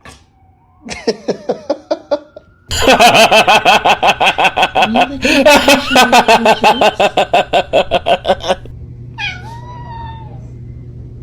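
A cat crying loudly in a long run of rapid, pulsing cries, then a shorter gliding meow near the end.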